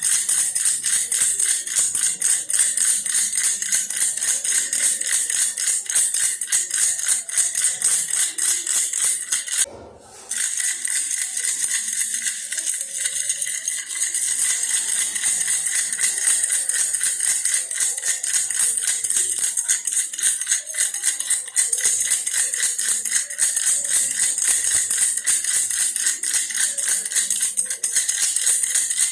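Baby's toy bear rattle shaken rapidly and continuously, a dense rattling jingle, stopping briefly about a third of the way through before resuming.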